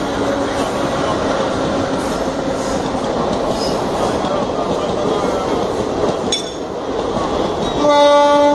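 Passenger coaches of an electric-hauled train rolling past, a steady rumble of wheels on rail with clickety-clack, and a steady hum that fades after about two seconds. Near the end a train horn sounds for under a second, the loudest sound.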